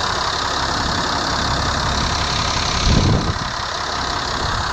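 Ford TW tractor's diesel engine running steadily, with a brief low thump about three seconds in.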